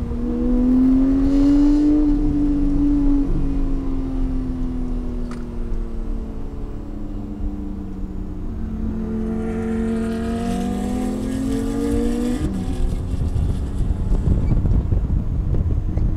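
Porsche engine heard from inside the cabin on track: its pitch rises briefly, sags slowly as the car slows through a corner in second gear, then climbs again under throttle before dropping with an upshift into third about twelve seconds in. A low rumble of road and tyre noise is heard under it, heavier after the shift.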